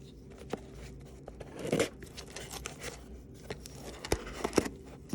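Plastic packaging being handled and pulled at by hand to get it open: irregular crinkling and tearing with scattered sharp clicks, the loudest rustle about two seconds in.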